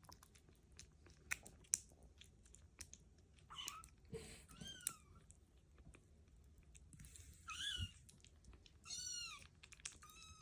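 Kittens eating, with small wet clicks and smacks of chewing, and about four short, high-pitched kitten mews with a rising-and-falling pitch in the second half.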